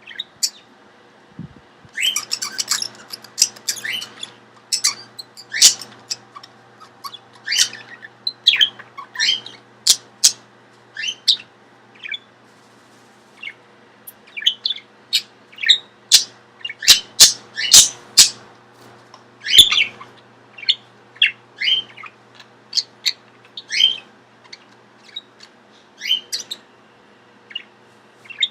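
Pet budgerigar and lovebird calling: many short, sharp chirps and squawks in irregular runs with brief pauses, starting about two seconds in.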